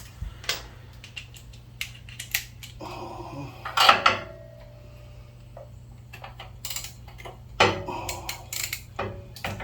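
Scattered metallic clicks and clanks of hand tools and small metal parts being handled while working on a generator's spark plug, with a louder clank about four seconds in that rings briefly.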